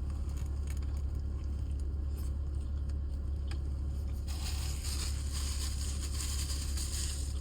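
Paper food packaging rustling and crinkling as it is handled, growing louder and denser over the last three seconds, over a steady low hum.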